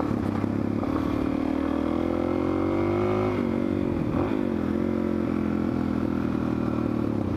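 Suzuki DR-Z400SM's single-cylinder four-stroke engine running while the bike is ridden. Its pitch rises slowly for about three seconds, dips and wavers briefly, then holds steady.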